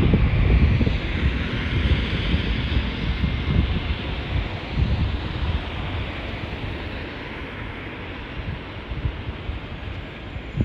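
Fire engine driving past with a low engine rumble and tyre hiss, fading steadily as it moves away, with wind buffeting the microphone. No siren is sounding.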